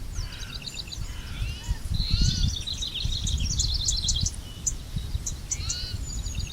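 Several songbirds singing at once, quick repeated chirps and trills overlapping, over a low, uneven rumble.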